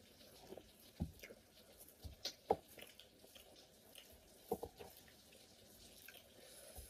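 Faint wet chewing and lip smacking from people eating, with a handful of short, sharp clicks; the loudest comes about two and a half seconds in.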